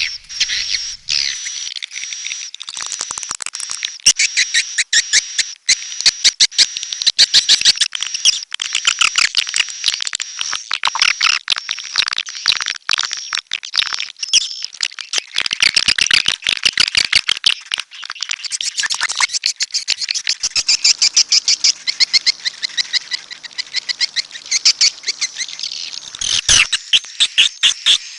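Swiftlet calls: a dense, high-pitched stream of rapid chattering clicks and chirps, with a thin steady high tone underneath for about the first half.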